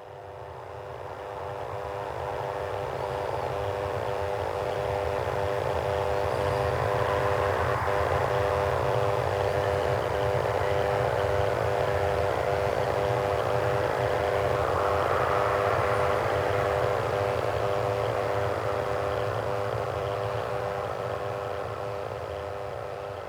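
Aircraft engines passing by: the sound grows louder over the first few seconds, holds as a steady drone with a hum of several steady tones, then fades near the end.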